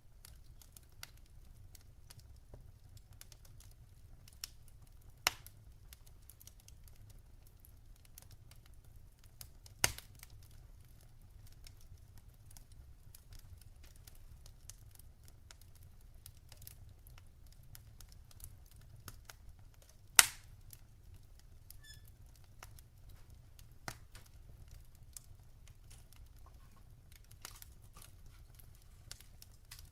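Logs burning in a fireplace, crackling and popping: a steady scatter of small crackles with three louder pops, about 5, 10 and 20 seconds in, over a faint low rumble.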